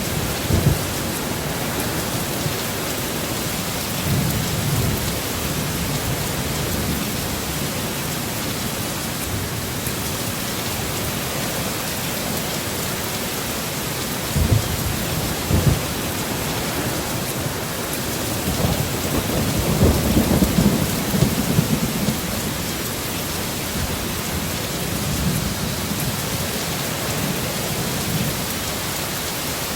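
Heavy steady rain with thunder rumbling several times, the longest and loudest roll about two-thirds of the way through.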